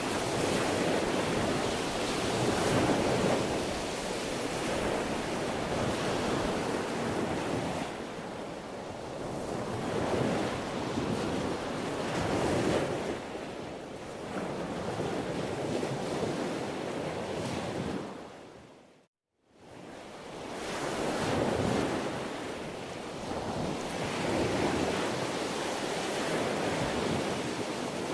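Sea waves breaking and washing on a shore, the surf swelling and easing every few seconds. About two-thirds of the way through, the sound fades out to a moment of silence and quickly fades back in.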